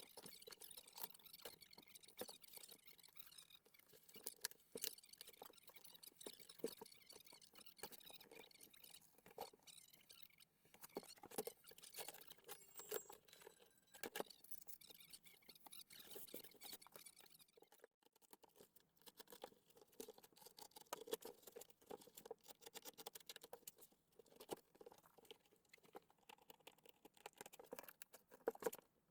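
Faint crackling, scratching and small clicks of vinyl covering being pulled off a car door card by hand, without heat.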